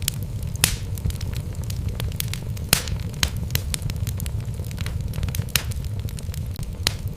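Wood fire in a fireplace crackling: sharp pops at irregular moments over a steady low rumble of burning logs, with the loudest pops about half a second in and near three seconds.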